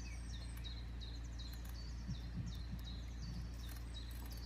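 A small songbird singing a steady run of short, high, down-slurred notes, about three a second, over a constant low outdoor rumble.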